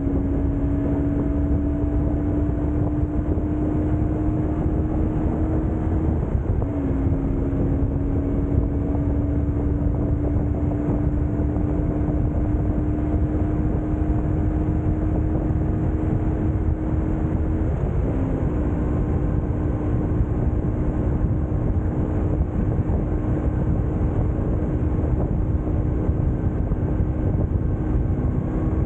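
BMW R1150GS Adventure's flat-twin boxer engine running under way, with wind and road noise. Its note climbs slowly and twice briefly breaks and drops in pitch, about six seconds in and again past the middle, as with a gear change.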